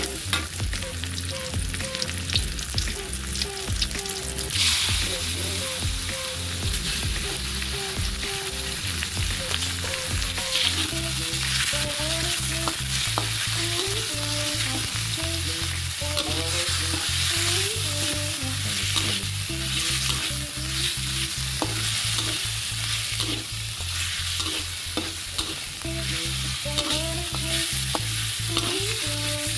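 Onion and garlic sizzling in hot oil in a metal wok, with a metal spatula stirring and scraping against the pan.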